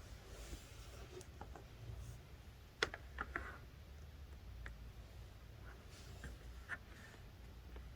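Faint light scratching with scattered small clicks and taps, the sharpest a click about three seconds in, like small tools and nail tips being handled on a table.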